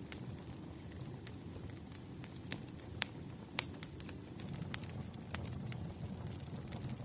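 Burning firewood crackling: a steady low rumble of flames with irregular sharp pops and snaps, the loudest about three and three and a half seconds in.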